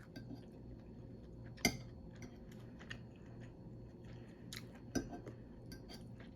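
Close-up chewing and mouth sounds of a person eating, with scattered sharp clicks, the loudest a little under two seconds in and about five seconds in, over a faint low hum.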